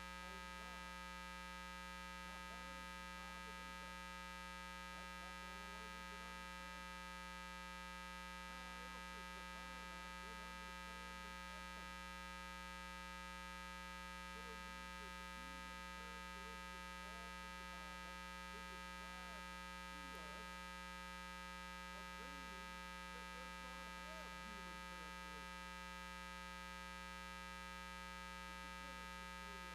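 Steady electrical mains hum, with faint wavering sounds underneath that look like a distant voice.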